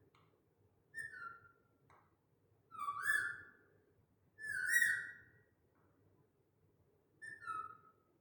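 Pet parrot giving four whistled two-note calls, each dropping from a higher note to a lower one; the second and third calls are the loudest and longest.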